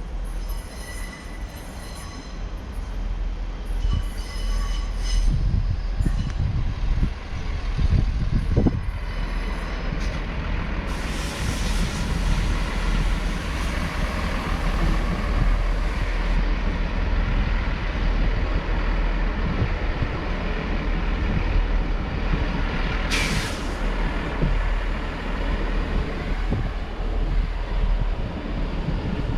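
Diesel train at the platform, its engine giving a steady low rumble. A long hiss of air starts about a third of the way in, and a short sharp burst of air hiss comes near the end, typical of air brakes. A few short high tones sound in the first seconds.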